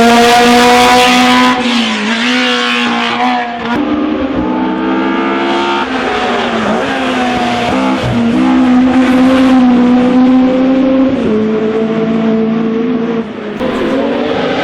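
A racing car engine at high revs under hard acceleration up a hillclimb course, its note dipping briefly several times as the driver changes gear. It is loudest at the start, then carries on somewhat quieter as the car pulls away.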